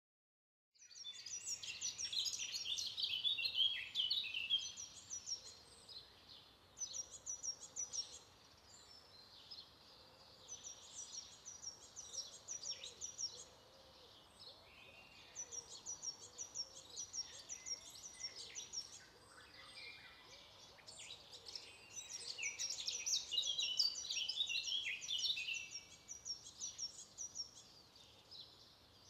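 Several songbirds singing, their chirping phrases overlapping and coming in spells of a few seconds with quieter gaps between, over a faint steady hiss.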